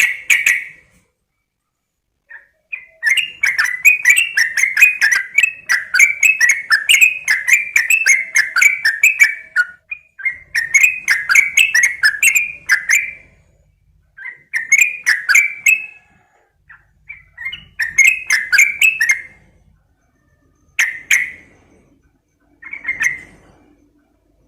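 Yellow-vented bulbul (trucukan) chattering: a long fast run of bubbling notes, then several shorter bursts and a couple of brief single calls near the end.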